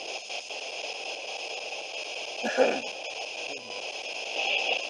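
Spirit box radio sweeping through stations: a steady static hiss, broken by a short, loud snatch of radio sound about two and a half seconds in and a smaller one near the end.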